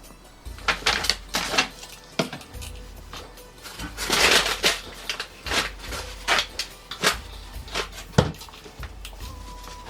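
Bottles and containers knocking and clattering as they are handled and set down in a bathroom cabinet: irregular sharp knocks, with a brief rustle about four seconds in, over background music.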